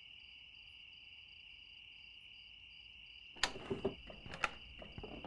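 Crickets chirping steadily in a continuous chorus. From about three and a half seconds in, a short run of knocks, clicks and rustling as someone moves.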